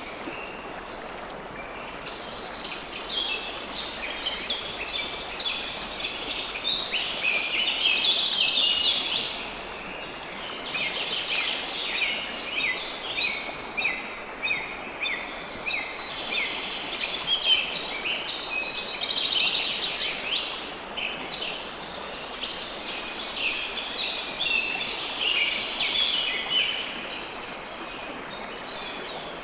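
River water flowing steadily, with many birds chirping and twittering over it in dense bursts that thin out near the end.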